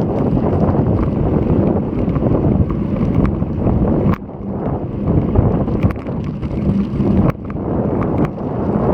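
Loud wind buffeting an action camera's microphone on a moving bicycle: a low, gusty rumble that drops away suddenly a few times, with faint clicks here and there.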